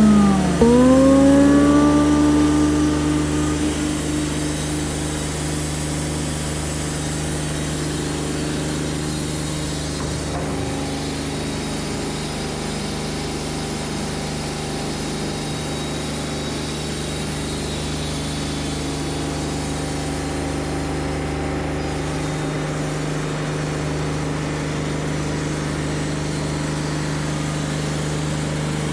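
An engine running at a steady speed. In the first couple of seconds its pitch dips and then rises and settles, and it grows quieter before holding a steady hum.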